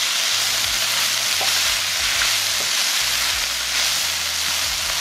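Shredded chicken sizzling in a hot frying pan while it is stirred and tossed with tongs: a steady frying hiss with the soft scrape and knock of the utensil against the pan. The burner has just been turned off, so the sizzle comes from the pan's remaining heat.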